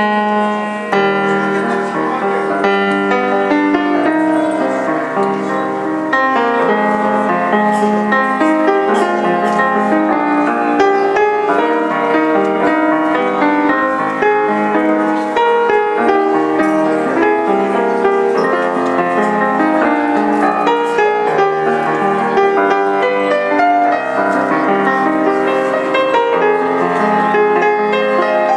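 A piano being played: a continuous piece of many quick notes at a steady, fairly loud level.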